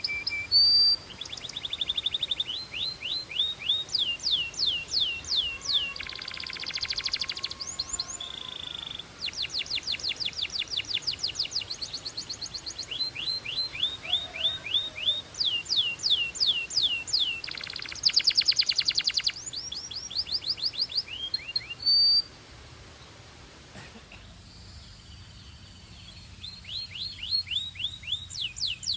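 Belgian canary singing: a fast, continuous song made of tours of rapidly repeated, high, downward-sweeping notes and quick trills, each tour a second or two long. There is a short lull about two-thirds of the way through before the song resumes.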